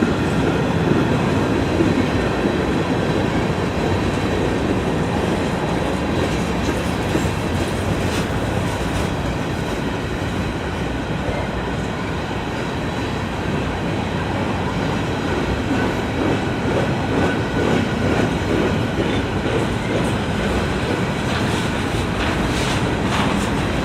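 A train's cars rolling steadily past on the rails, wheels running over the track.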